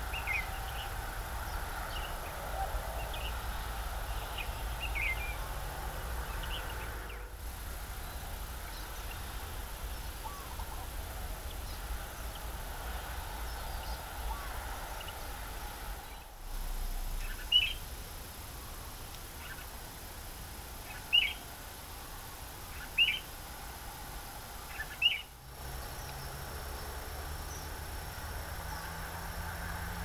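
Wild birds chirping: short, high chirps scattered through, with four louder single chirps about two seconds apart in the second half, over steady outdoor background noise.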